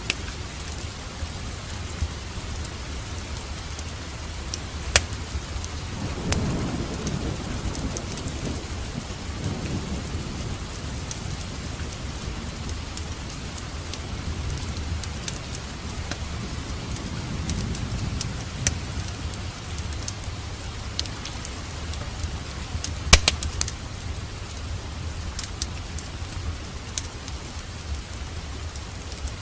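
Steady rain with thunder rumbling low twice, first about six seconds in and again around sixteen to nineteen seconds. Scattered sharp crackles from a wood fireplace sound over the rain, the loudest about five seconds in and near twenty-three seconds.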